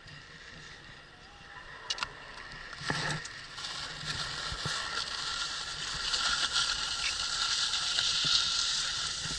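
Skis sliding and scraping over snow, the hiss building from about three seconds in and staying loud to the end. Two short knocks come about two and three seconds in.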